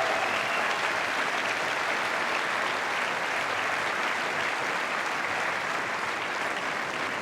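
Stadium crowd applauding steadily after the winning point of a tennis match, slowly dying down.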